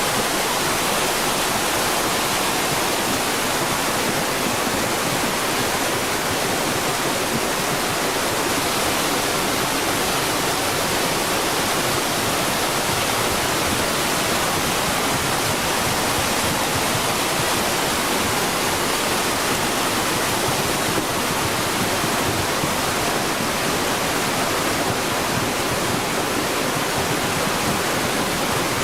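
Floodwater torrent rushing, a steady, unbroken rush of water noise.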